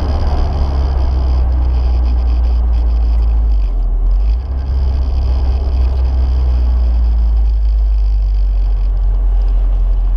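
Toyota MR-S's swapped 2AR-FXE four-cylinder engine heard from inside the cabin, a steady low drone at light throttle with revs easing down as the car slows, over tyre and wind noise.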